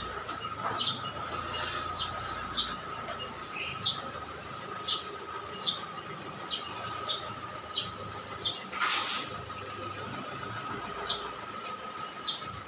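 A bird chirping over and over: short high chirps about once a second, over a steady thin tone. A louder noisy rasp about nine seconds in.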